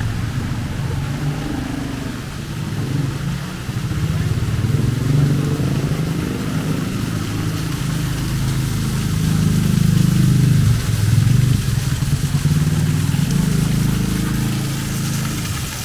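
Motor vehicle engines running close by: a low engine sound that wavers in pitch and grows louder around the middle before easing off.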